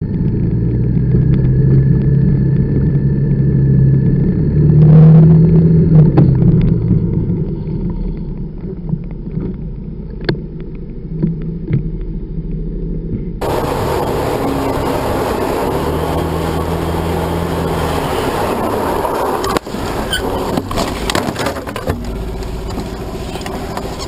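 Motor vehicle engine running with road noise, loudest around five seconds in. About halfway through the sound changes abruptly to a different, wider road and traffic noise.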